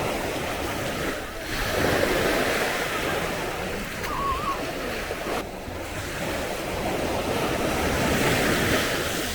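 Sea waves washing up on a beach, a continuous surf that swells louder twice as waves break.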